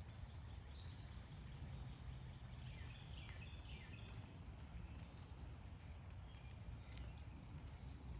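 Faint bird chirps over a steady low outdoor rumble: a short high chirp about a second in, then a quick run of falling chirps around three seconds in, with a few sharp clicks later on.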